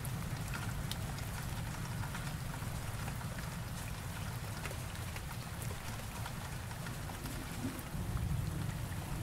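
Steady rain with scattered sharp drop ticks over a constant low rumble, which swells near the end.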